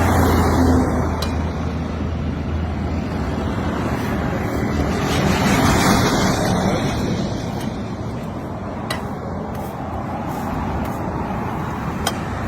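Road traffic: motor vehicles passing close by on the road, swelling loudest about a second in and again around five to seven seconds in, with a low engine hum in the first few seconds.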